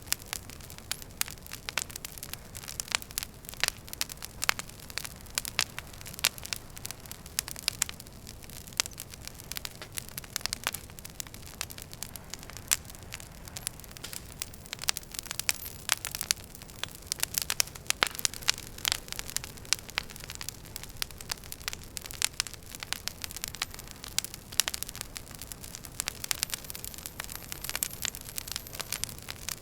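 Wood fire burning in a fireplace, crackling with many irregular sharp pops and snaps over a steady low hiss.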